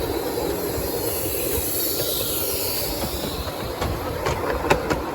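Train running along the track with a steady rumble, a faint wheel squeal in the middle and a few sharp clicks near the end.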